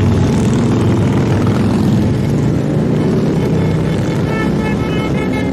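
A stream of motorcycles riding past in a parade, their engines running loud and steady. About four seconds in, a high, rapidly pulsing tone joins in.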